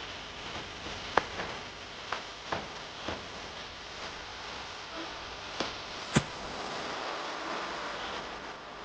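Irregular sharp clicks and snaps, about seven of them, over a steady hiss; the loudest comes about six seconds in.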